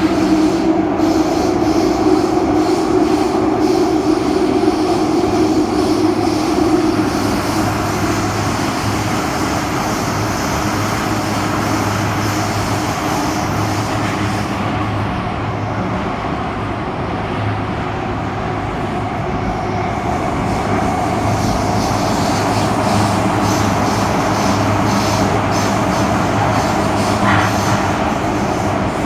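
KSF CT251 metro train running, with a motor whine that fades over the first few seconds and a steady rhythmic knocking from the wheels. The knocking is the sign of badly flatted wheels.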